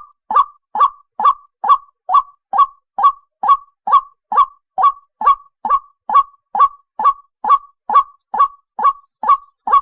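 White-breasted waterhen giving its monotonous territorial call: a steady, unbroken series of short, loud "kwok" notes, a little over two a second.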